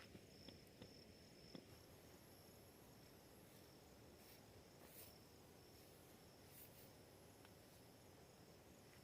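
Crickets trilling steadily at night, faint, with a few soft ticks.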